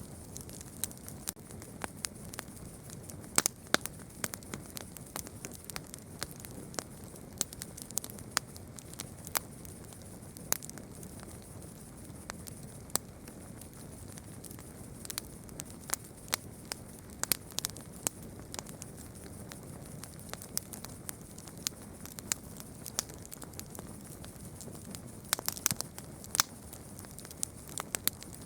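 Campfire crackling over a steady low hiss, with irregular sharp pops and snaps of burning wood and a quick cluster of pops near the end.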